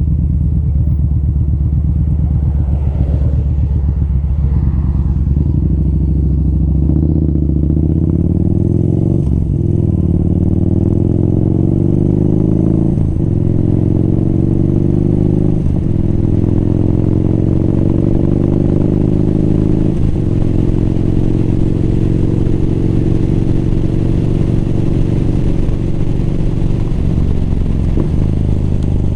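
Motorcycle engine under way, running steadily at first, then pulling up through the gears: the pitch rises and drops back at each of four upshifts before it settles into a steady cruise.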